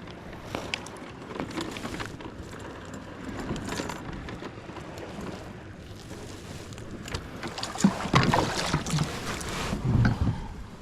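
Small knocks and rustling of gear being handled aboard a kayak on the water, busier and louder for a couple of seconds near the end.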